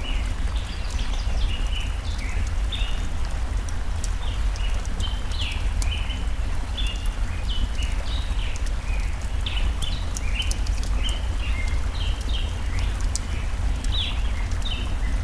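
Forest ambience: a stream running with a steady low rush, birds chirping rapidly and continuously, and the sharp pops and crackles of a burning campfire scattered throughout.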